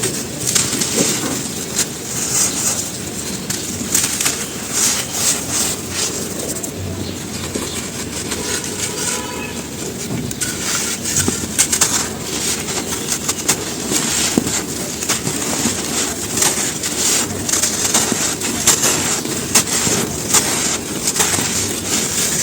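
Dry charcoal and ash being crumbled: a continuous dense crunching crackle with frequent sharper snaps.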